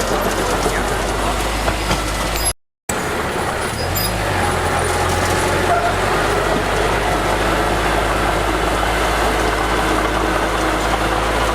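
Heavy diesel engine of earthmoving machinery running steadily, with a short dropout to silence about two and a half seconds in.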